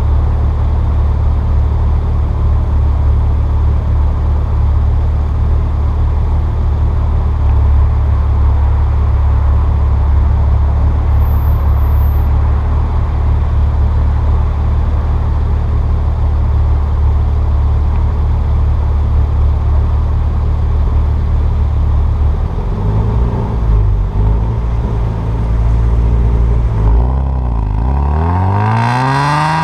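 Exhaust of a 2002 Nissan Maxima's 3.5-litre VQ35DE V6, with equal-length headers and the resonator deleted (straight-piped), which gives it a raspy note. It runs steadily at low revs, then about two-thirds of the way in its pitch rises and falls, and near the end it climbs steeply as the car pulls away in first gear.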